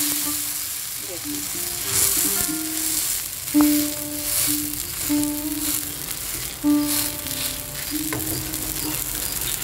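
Semolina paratha sizzling steadily in hot oil in a non-stick frying pan while it is pressed with a silicone spatula, with a few light knocks of the spatula.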